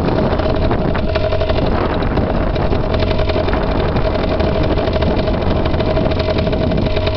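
Dirt bike engine running at a steady speed, with a steady whine over its note.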